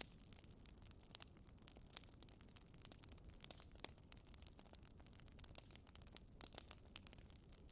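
Wood fire crackling in a fireplace: quiet, irregular sharp pops and snaps, several a second, over a faint low rumble.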